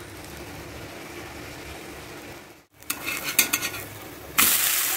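Potato dosa batter sizzling on a hot tawa, then a steel spatula scraping and clicking against the griddle as the dosa is loosened and flipped, after which the sizzling comes back louder near the end.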